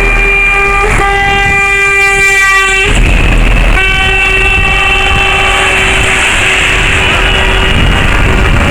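Lorry air horn sounding in two long, steady blasts: the first ends about three seconds in, the second starts a second later and holds for about four seconds, over a steady low rumble.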